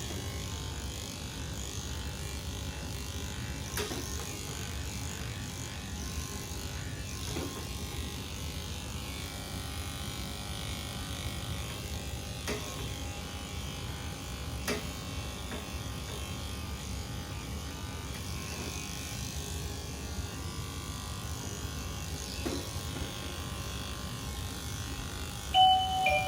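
Electric pet clippers running steadily while trimming a cat's fur, with a few faint clicks. A chime starts near the end.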